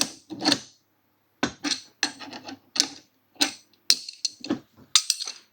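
Irregular metallic clinks and knocks, about a dozen with short gaps between, some ringing briefly: a wrench and steel parts of a hydraulic scissor motorcycle lift being handled as a nylock-nutted bolt through the jack mount is done up.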